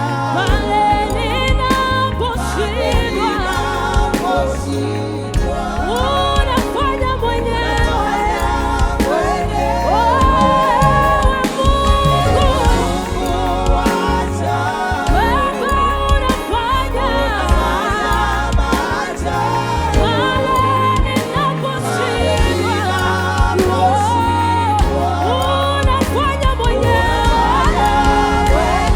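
Live gospel worship music: singers' wavering, gliding vocal lines over a band with a deep, sustained bass line.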